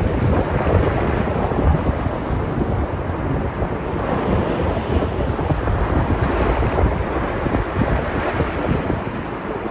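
Sea surf washing ashore in a steady wash, with wind buffeting the microphone and gentle swells in loudness.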